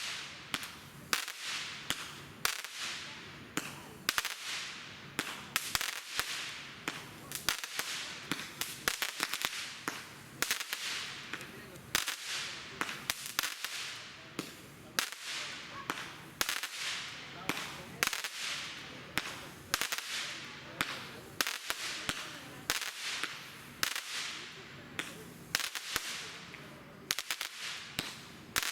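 A 200-gram, 49-shot consumer firework cake firing a long, uneven string of sharp cracks, one or two a second, each followed by a fading crackling hiss.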